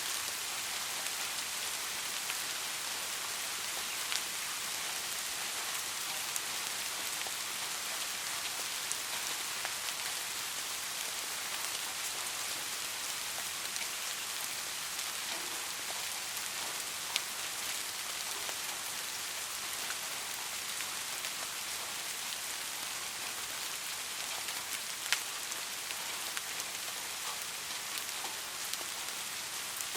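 Steady rain falling on a street, a constant even hiss with a few sharper single drop impacts here and there.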